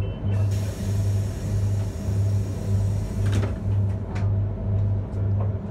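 Commuter train standing at a station platform: a low hum from the train throbs about twice a second. About half a second in, a hiss of air starts and stops suddenly after some three seconds, followed by a couple of sharp knocks, as of the train's pneumatic doors working.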